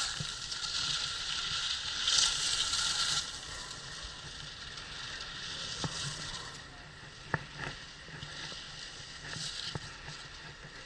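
Skis sliding and scraping over packed snow in a skidded turn. The hiss swells loudest for a couple of seconds early on and again briefly near the end, with a few light clicks of ski or pole.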